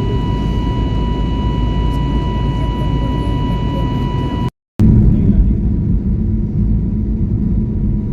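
Airbus A320neo turbofan engines running: a steady rumble with several high whining tones, cut off about four and a half seconds in, followed after a brief gap by a second clip of steady engine rumble without the whine.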